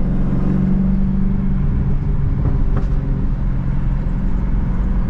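Dodge Challenger Hellcat's supercharged 6.2-litre Hemi V8 running steadily on the move, with a low drone from its exhaust, whose mid pipes have been deleted. A short click a little under three seconds in.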